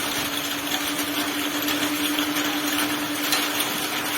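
Steady hiss of heavy rain, with a single steady hum running through it.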